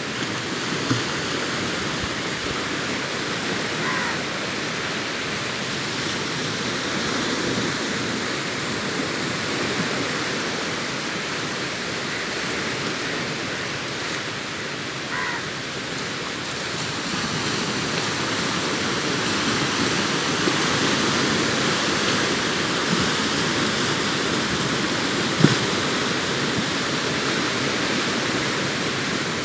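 Sea waves breaking and washing up a sandy beach, a continuous rush of surf that swells louder in the second half. Two faint short calls cut through it, about 4 and 15 seconds in.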